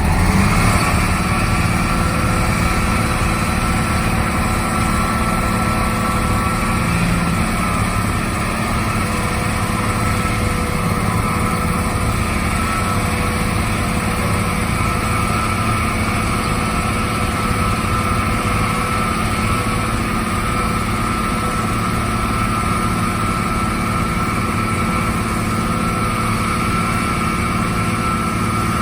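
Construction machine engine running at a steady speed, with an even drone and a few steady whining tones.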